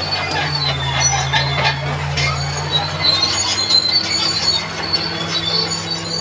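Crawler bulldozer working: its diesel engine runs steadily, pulling harder for the first few seconds, while the steel tracks squeal and clank.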